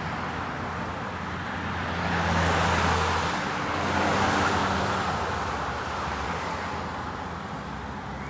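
Road traffic: motor vehicles passing with a low engine hum and tyre noise, swelling twice, about two and a half and four and a half seconds in.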